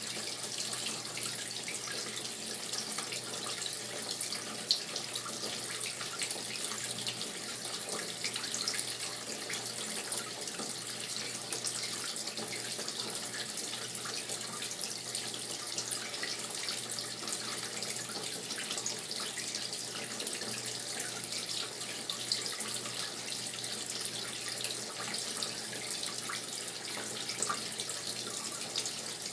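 Brastemp Tira Manchas Pro 12 kg washing machine filling with water: a steady rush of water running into the tub, with a faint low hum underneath.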